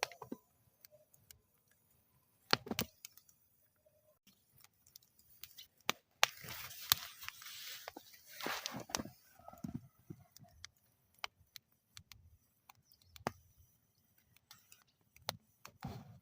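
Wood fire burning in a metal fire bowl, crackling with scattered sharp pops. There is a louder snap about two and a half seconds in and a few seconds of hissing around the middle.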